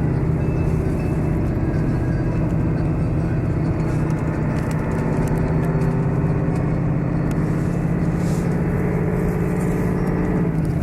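Steady engine and road drone of a tour coach, heard from inside the cabin.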